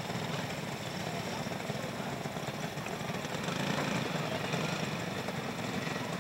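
Several small go-kart engines running together as cage karts race on a dirt oval, a steady mixed buzz that swells a little around the middle.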